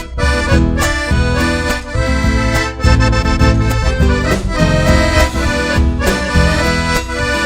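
Accordion playing the lead melody of an instrumental passage of Argentine folk music, over a steady beat of bass and percussion.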